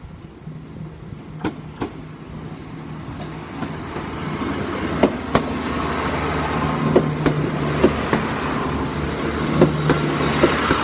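East Midlands Railway Class 170 Turbostar diesel multiple unit approaching and passing close by. Its underfloor diesel engine hums and grows louder from about four seconds in, and the wheels clack over the rail joints as the carriages go by.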